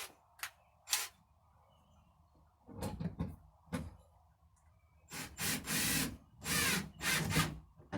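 A few sharp clicks, then several short bursts of a power drill driving screws into wood, coming close together in the last few seconds.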